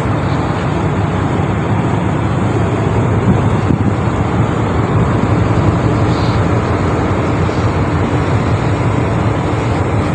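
A ship's engine running with a steady low rumble while the vessel is being manoeuvred, and wind noise on the microphone over it.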